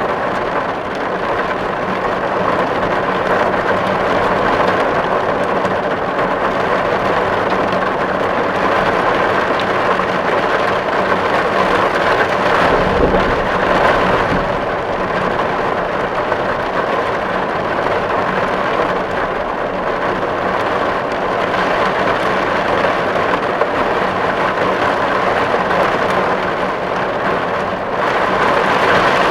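Steady rain drumming on a tin roof, an even patter of drops on metal, with a brief low rumble about halfway through.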